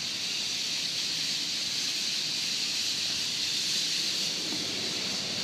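A large flock of birds calling all at once, their chatter blurring into a continuous high, hiss-like din.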